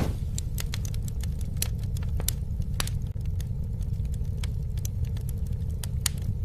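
Campfire burning, with many irregular sharp crackles and pops over a steady low rumble of flame.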